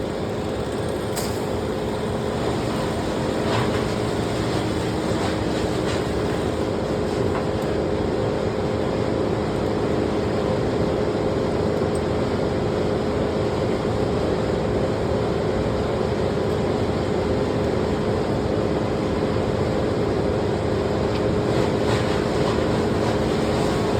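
An engine running steadily at an even speed, a constant mechanical hum with no revving.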